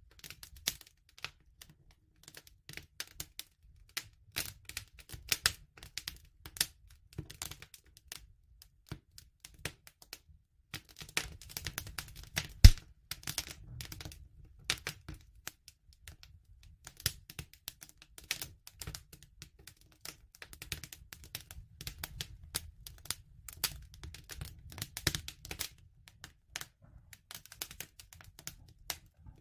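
Wood fire crackling: irregular sharp pops and snaps over a low steady rumble of the flames, with one louder pop about midway.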